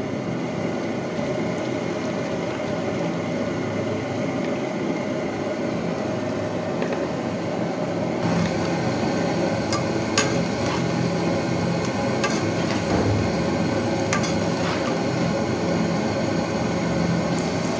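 Cut okra frying gently in a wok of oil that is not yet hot: a steady low sizzle, with a few light clicks against the pan.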